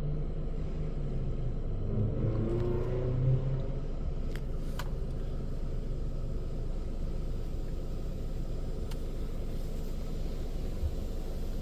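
A car's engine running at low speed, heard from inside the cabin, with a short rise in engine sound about two to three seconds in. A few sharp clicks follow about four and a half seconds in and again near nine seconds.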